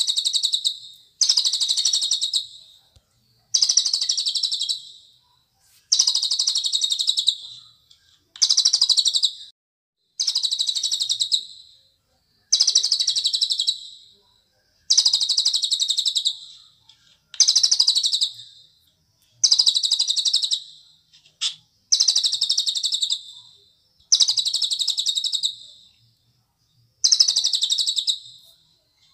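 Cililin songbird singing a high, fast trilled phrase over and over, each phrase about a second and a half long with a short pause between, roughly one every two seconds.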